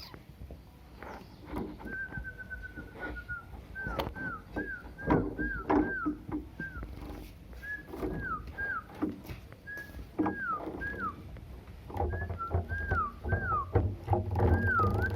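Small bird bathing, with water splashing and fluttering and many short, falling whistled chirps from about two seconds in. A low hum joins near the end.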